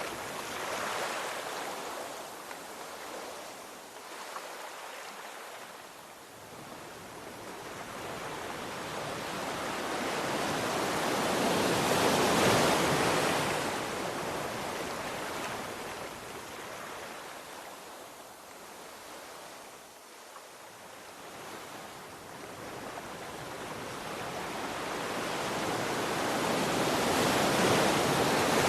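Ocean waves surging in and ebbing away, in slow swells of hiss. Two big surges, one mid-way and one near the end, each build over several seconds and then fade.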